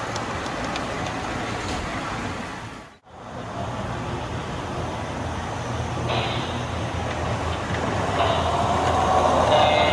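Model trains running on a layout: a steady running rumble, broken by a brief dropout about three seconds in. From about six seconds a pitched tone with many overtones joins and grows louder toward the end.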